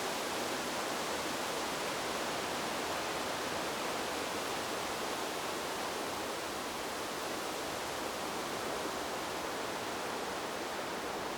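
Wind blowing through a bamboo grove, a steady, even hiss of moving leaves with no gusts or breaks.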